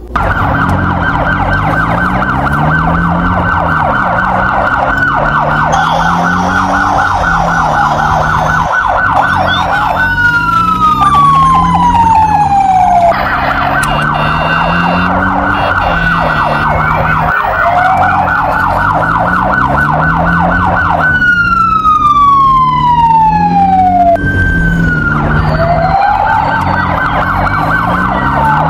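Several emergency-vehicle sirens sounding together: a fast, steady warble over a slower rising-and-falling wail. Twice, a long tone slides steadily downward for about three seconds.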